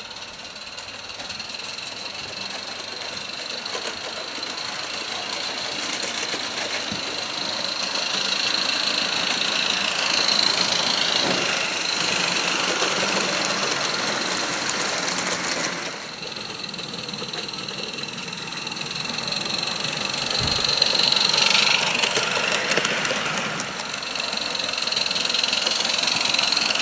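A 16mm-scale live-steam garden locomotive running with a mixed goods train, a steady mechanical chuffing and rattling that swells and fades as it passes close by several times.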